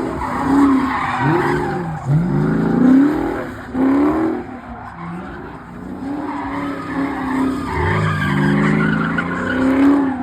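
Dodge Charger engine revving up and down over and over while its tyres squeal as the car slides.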